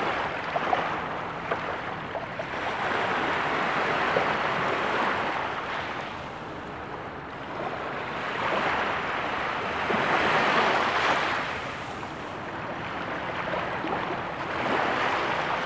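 Surf washing in: a rushing noise that swells and fades several times.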